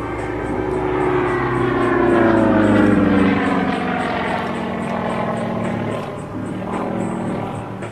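Sukhoi Su-31 aerobatic plane's nine-cylinder radial engine and propeller passing by. The pitch falls as it goes past about two to three seconds in, where it is loudest, and the sound swells again near the end.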